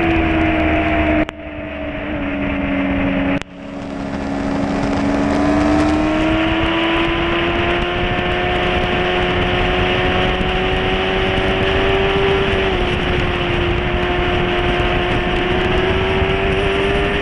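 Onboard motorcycle engine running hard at track speed, with wind rushing past. The engine sound drops away suddenly about a second in and again a couple of seconds later, then its pitch climbs slowly as the bike accelerates, with a brief dip near the end.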